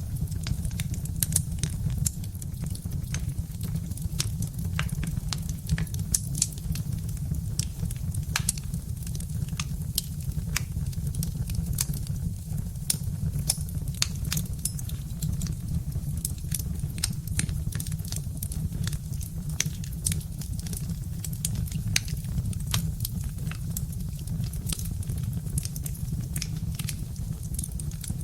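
Birch-wood fire burning in a fireplace, crackling with frequent irregular sharp pops over a steady low rumble.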